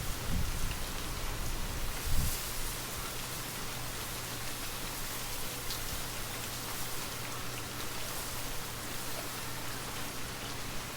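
Gentle rain falling steadily: an even hiss with faint scattered drop ticks. A low gust of wind rumbles under it and dies away about two seconds in.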